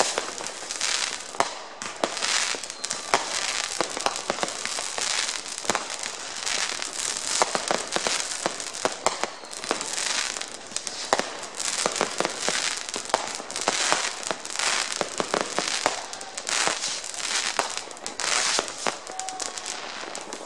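Many fireworks going off at once: a dense, unbroken run of bangs and crackles, with rockets and fountains firing.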